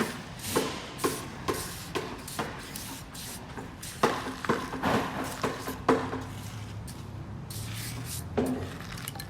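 Tile-setting work: a run of sharp taps and knocks, about two a second, then a denser cluster a few seconds in, with scraping. A steady low hum comes in over the last few seconds.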